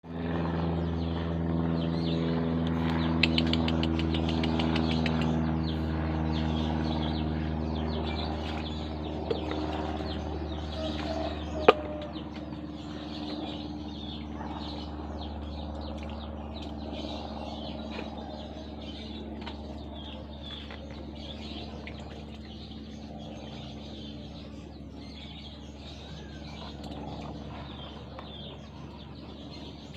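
Birds chirping over a steady low motor hum that slowly fades through the first half. There is a sharp click about twelve seconds in.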